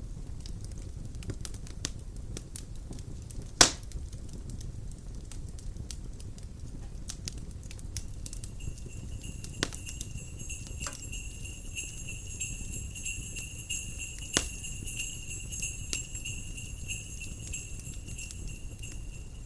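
Wood fire crackling steadily over a low rumble, with two loud pops. About eight seconds in, a steady high jingling of bells begins and continues.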